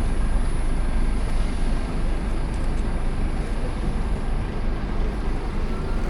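Steady city street traffic noise: a continuous low rumble with no single vehicle standing out.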